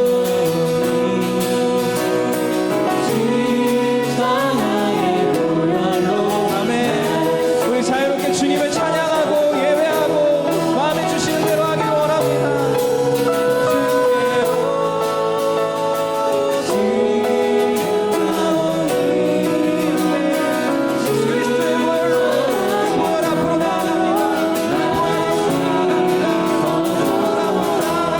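Gospel worship music: sustained instrumental accompaniment with many voices over it.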